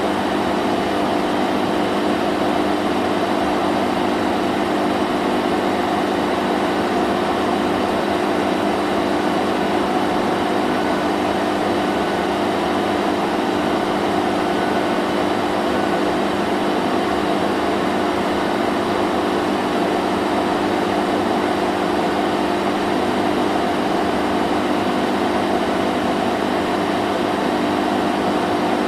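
Vacuum cleaner running steadily: a constant motor hum under an even rushing hiss, with no change in pitch or level.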